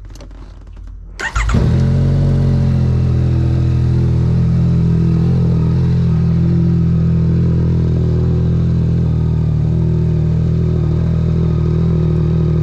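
2023 Yamaha MT-09's 890 cc inline-three started through a Dominator HP3 exhaust with the dB killer removed: it fires about a second in and settles into a steady, loud idle.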